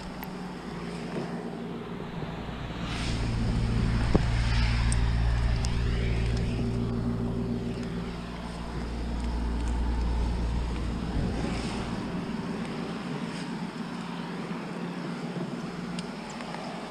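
A motor vehicle engine running steadily, growing louder for several seconds around the middle, with a passing rush of noise as it swells.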